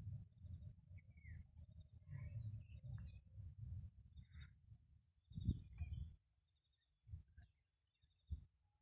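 Faint birds chirping in short calls, with a thin high trill running underneath. Low rumbling on the microphone fills the first half, then comes in a few short gusts.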